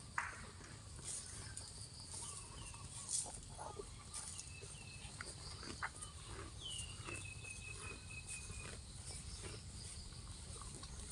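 Cow grazing: irregular tearing and crunching as grass is pulled and chewed. A few thin falling whistles sound over it, the longest about seven seconds in.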